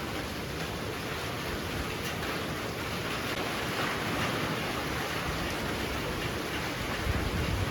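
Heavy rain pouring steadily with strong wind. The rush swells a little past the middle, and a low gust buffets near the end.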